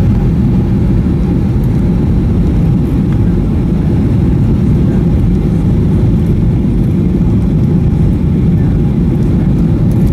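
Steady low rumble inside the cabin of a Boeing 737-800 in flight: engine and airflow noise, even throughout.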